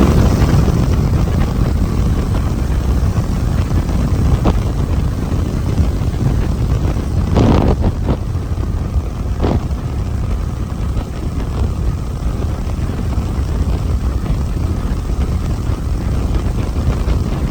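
Steady low rumble of a motorcycle ride with wind buffeting the microphone, with a few brief sharper sounds near the middle.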